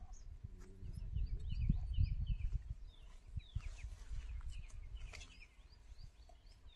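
Small birds chirping over and over in short, falling chirps, over a low rumble.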